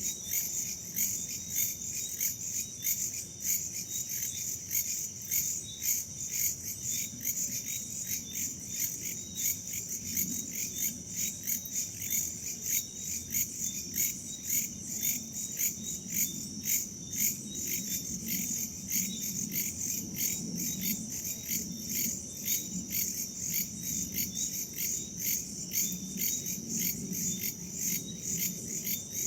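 Night chorus of crickets and other insects: rapid, even chirping pulses over a steady high trill, with a soft low wind noise swelling and fading underneath.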